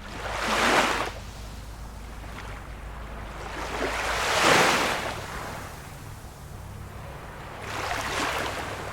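Small waves washing onto the shore of a calm sea, three swells of splashing: a short one about a second in, a longer, louder one midway, and a softer one near the end.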